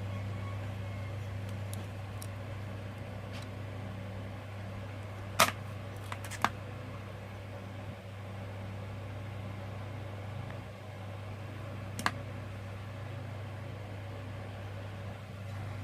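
Steady low hum in the background, with a few short light clicks: a small cluster about five to six and a half seconds in and one more near twelve seconds, from plastic toy parts being handled and pressed together while they are glued in place.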